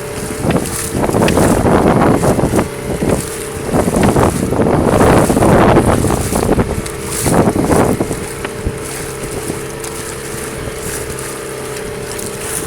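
Fishing boat's engine running with a steady hum, overlaid for most of the first eight seconds by swelling rushes of wind and water noise.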